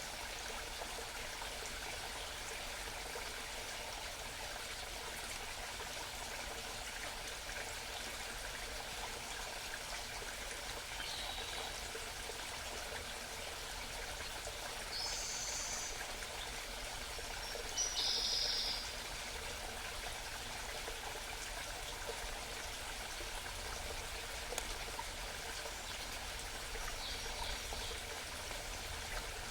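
A small mountain stream babbling steadily, with a few short songbird calls scattered over it, the loudest about the middle.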